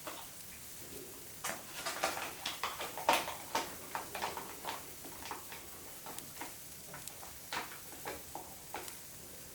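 Wood fire crackling: irregular sharp pops and snaps, thickest between about one and a half and five seconds in, then sparser.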